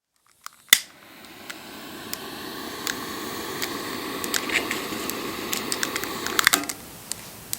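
A wood bonfire popping and crackling over a hiss. A sharp click comes first, then the hiss builds for about six seconds and drops off suddenly, leaving quieter crackles.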